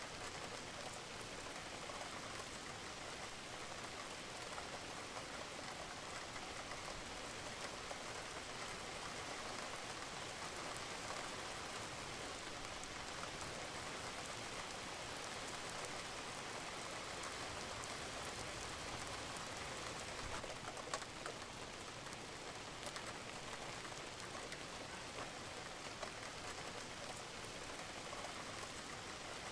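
Light rain falling steadily, a dense hiss of many small drops pattering on surfaces.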